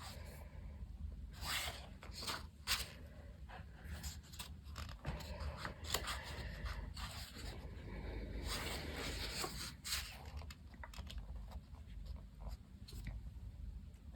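Pages of a paperback colouring book being turned and handled, paper rustling and scraping, with scattered light clicks and a longer rustle near the end.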